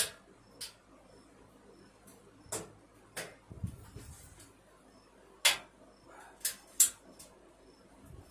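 A series of sharp clicks and light knocks, about seven in all, with a duller thump near the middle: box fan parts and tools being handled during reassembly.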